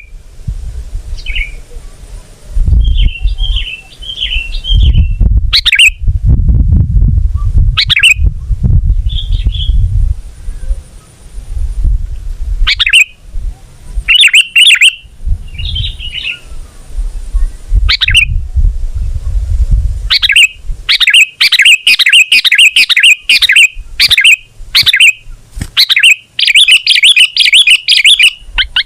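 Sooty-headed bulbul (kutilang) calling in short, bubbly phrases, building in the last third into a rapid, dense chattering song. A loud low rumble comes and goes under the first two-thirds.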